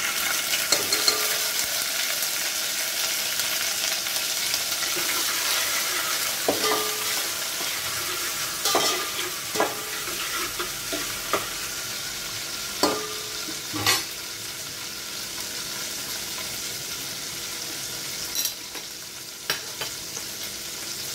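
Ginger paste, bay leaves and green cardamom sizzling in hot ghee in a steel pot, stirred with a metal spoon that clinks against the pot several times. The sizzle slowly dies down.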